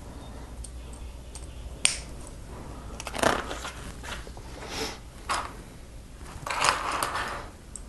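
Plastic Lego pieces being handled and snapped together: one sharp click a little under two seconds in, then several short rustling scrapes, the loudest near the end.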